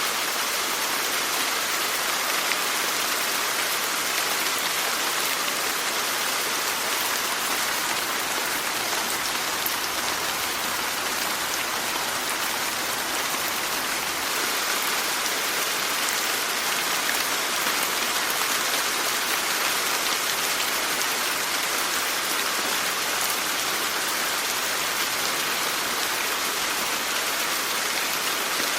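Steady rain falling, an even hiss of many drops with fine individual patters, strongest in the upper range.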